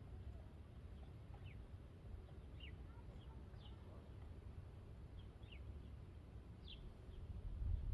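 Birds calling: short, quickly falling high chirps, one or two at a time, spaced irregularly. A faint low rumble runs underneath and swells near the end.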